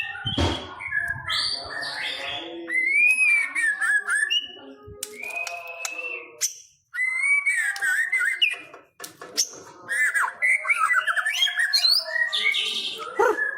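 White-rumped shama (murai batu, pastol type) in full song: loud, varied whistled phrases of rising and falling notes mixed with harsher chattering notes, with two brief pauses in the middle.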